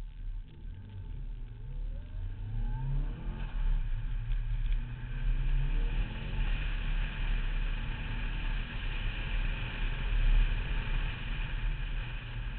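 Car engine accelerating hard on an autocross run, its pitch rising through the revs twice in the first six seconds, then held at high revs for the rest of the stretch.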